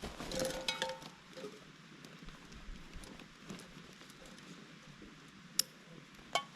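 Camping gear being handled: a few light knocks and small metal clinks in the first second, then a single sharp click and one more short ringing clink near the end.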